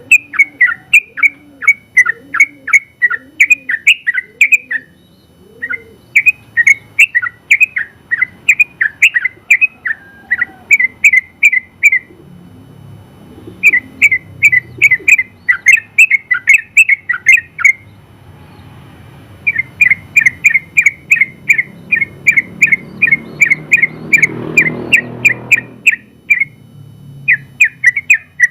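Yellow-vented bulbul (trucukan) singing long runs of rapid repeated short notes, broken by brief pauses. A low background rumble swells in the second half and fades near the end.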